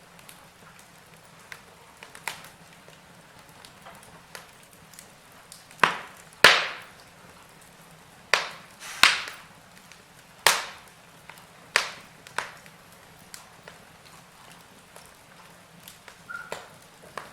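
Wood fire burning in a fireplace, crackling with sharp pops at irregular intervals over a faint steady hiss. The loudest pops come about a third of the way in and around the middle.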